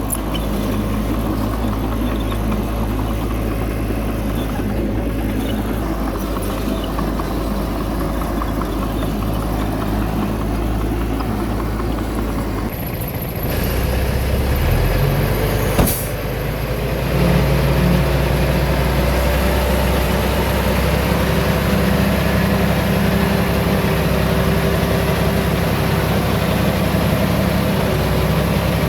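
Heavy diesel engine of earthmoving machinery running steadily. About halfway through its note shifts, with a sharp click, then it runs louder and higher under more throttle.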